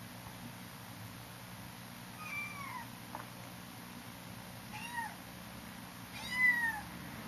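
Feral kitten meowing three times, short high-pitched mews spaced a couple of seconds apart, the last one the loudest.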